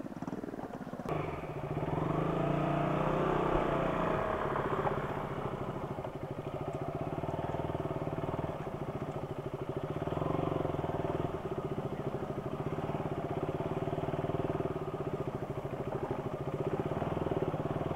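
Motorcycle engine pulling away about a second in and accelerating, its pitch rising, then running at a steady cruise.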